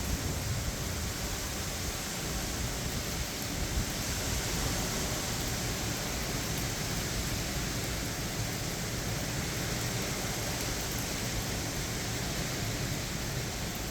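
Hurricane wind and heavy rain: a steady, unbroken noise that holds at one level throughout.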